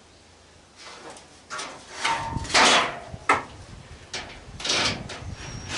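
Sheet-metal scraping, rattling and knocking on an AC condenser unit as a part jammed in a bind is worked loose, in a run of uneven bursts that grows louder from about a second in.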